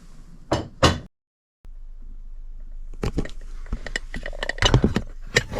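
Handling noises: two sharp knocks in the first second, a brief dead gap, then a run of irregular clicks and taps.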